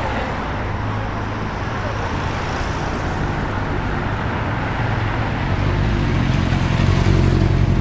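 Street traffic with a car engine running close by, getting louder near the end.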